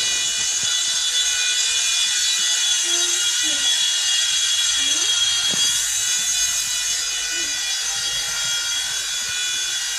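WLtoys V911 Pro micro RC helicopter's electric motor and rotors running, a steady high-pitched whine while it flies.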